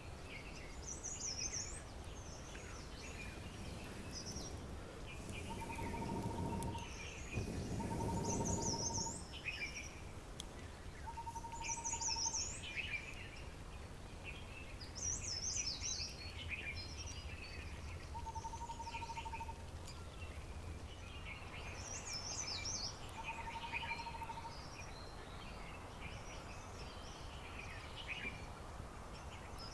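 Several wild birds calling and singing, with many short high chirps and warbles throughout and a level, fast-trilled note lasting about a second that recurs every few seconds. A brief patch of rustling noise comes about six to nine seconds in.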